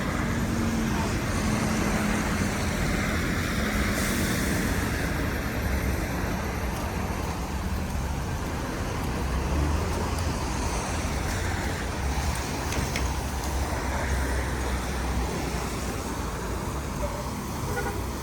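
City street traffic: cars and trucks passing and idling, a steady low engine rumble under a wash of road noise.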